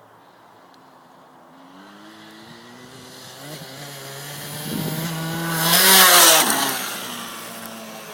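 Small KTM motocross bike approaching with its engine revving, getting steadily louder, passing close about six seconds in with a slight drop in pitch, then fading away.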